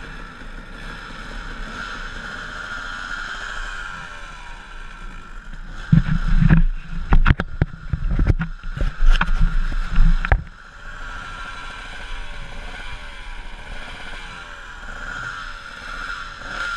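Dirt bike engine running, its pitch rising and falling with the throttle. About six seconds in there are four seconds of loud low rumbling and sharp knocks.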